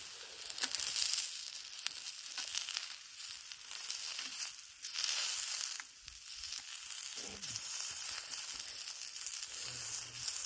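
Chicken and a pork chop sizzling on a flat stone used as a griddle over a campfire: a steady, high sizzle with scattered small pops and crackles.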